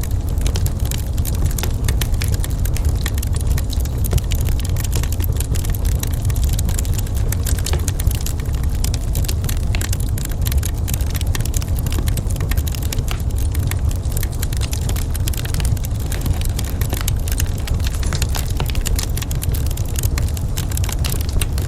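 Wood fire in a fireplace crackling, with many quick small pops and snaps over a steady low rumble.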